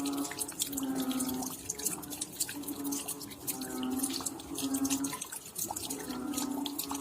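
Raindrops dripping and pattering in quick, irregular ticks, with a short pitched call repeating about once a second in the background.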